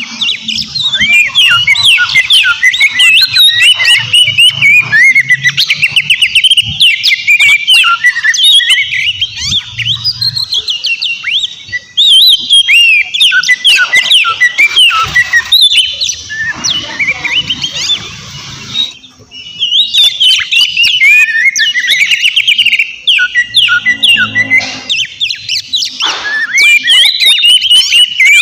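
Oriental magpie-robin (kacer) singing loudly in a fast, unbroken run of varied whistles, trills and harsh rasping notes, with a few short breaks.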